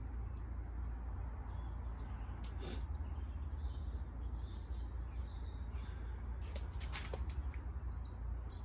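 Birds chirping now and then over a steady low rumble of distant road traffic, with a few brief rustles and clicks of hands working in compost.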